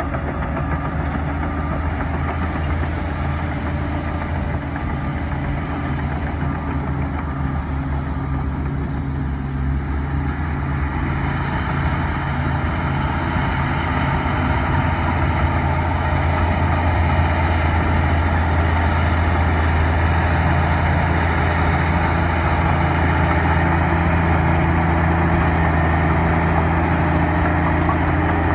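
Bulldozer's diesel engine running steadily under load, a low hum with a rougher mechanical noise over it, growing louder about halfway through.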